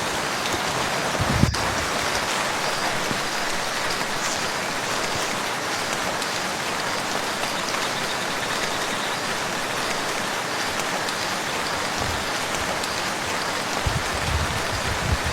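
Steady rain falling on a lake's surface, an even hiss of drops, with a brief low thump about a second and a half in and a few more near the end.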